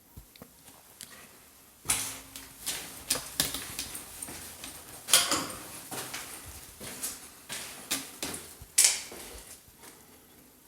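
A run of irregular clicks and knocks, with three louder clattering knocks about 2, 5 and 9 seconds in.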